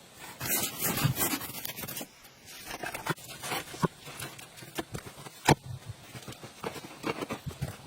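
Scraping and rustling, followed by scattered short clicks, with one sharp knock about five and a half seconds in.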